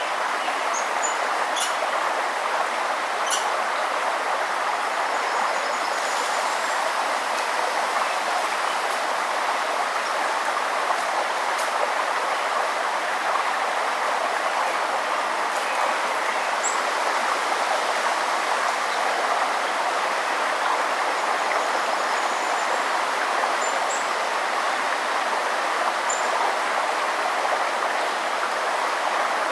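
Steady rush of a river's running water, with faint, short high bird chirps every few seconds.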